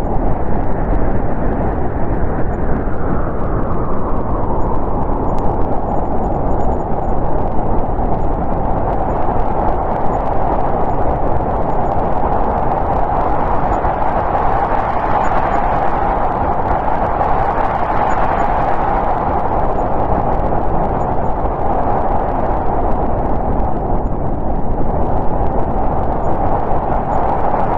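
Snowstorm wind blowing steadily, a rushing noise centred in the middle range, with slow gusts that rise and fall over several seconds.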